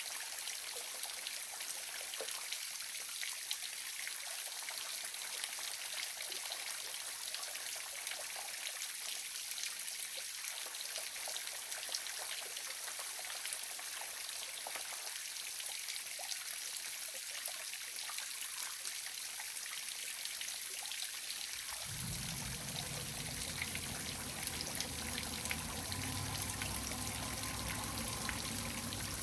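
A waterfall's falling water runs in a steady trickling and splashing hiss. About three quarters of the way through, a low rumble comes in suddenly beneath it and stays.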